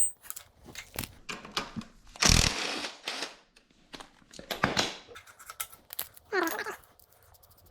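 Clicks and clatter of tools and metal parts being handled during a dirt bike teardown, with a harsh noisy burst about two seconds in and a shorter one near five seconds. A dog whines briefly near the end.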